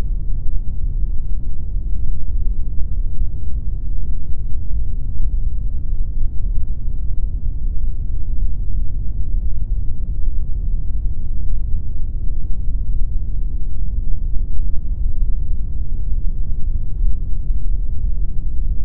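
Steady generated pink noise: an even, unbroken rushing sound that is deep and dark, with most of its weight low down and little at the top.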